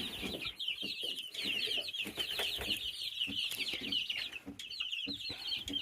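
A brood of baby chicks peeping nonstop, many short high chirps overlapping one another. Soft taps are heard underneath.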